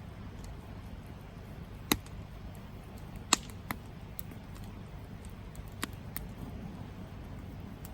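Campfire burning, with the wood crackling: several sharp, irregular pops over a steady low background of burning noise.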